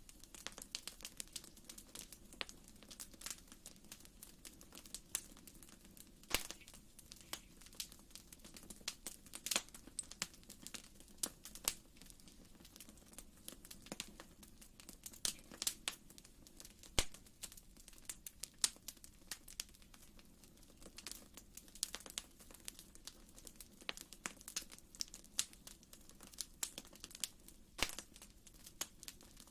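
Wood fire crackling in a fireplace: a steady low rush of flame with irregular snaps and pops throughout, one sharper pop about seventeen seconds in.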